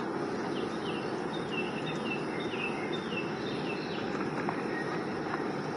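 Outdoor ambience: a steady rushing noise with a bird calling a quick series of short, falling chirps through the middle.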